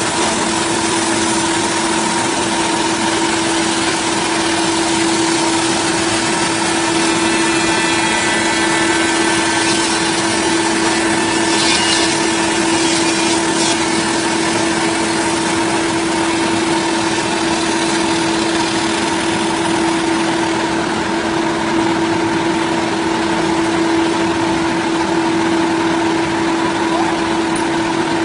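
Power saw running at a steady, unchanging speed, a constant hum over a rushing noise, as when cutting timber.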